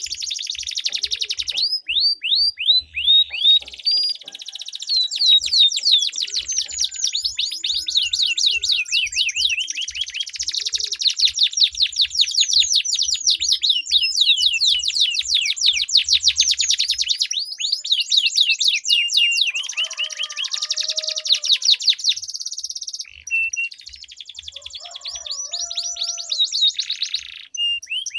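Domestic canaries singing, long rolling trills of rapid, repeated down-sweeping notes, broken by a few short pauses, with some lower whistled notes mixed in about two-thirds of the way through.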